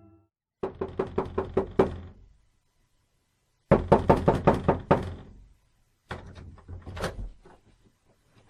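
Rapid knocking, as of a fist on a door, in three quick bursts of about eight to ten knocks each, with short pauses in between. The third burst is sparser, with one harder knock in it.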